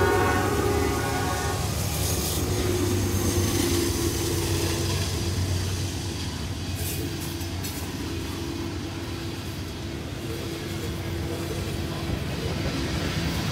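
Norfolk Southern diesel freight locomotives passing close by: the horn chord sounds and cuts off about a second and a half in, leaving the steady drone of the diesel engines and the noise of wheels on rail as the locomotives and then the tank cars go by.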